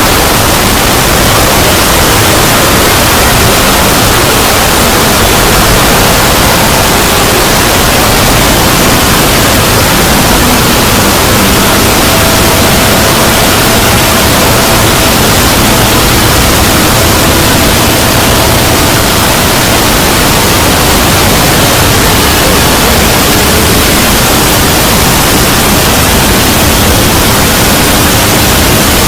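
Loud, steady static hiss filling every pitch evenly, with no speech or music. A faint steady tone shows through for several seconds in the middle.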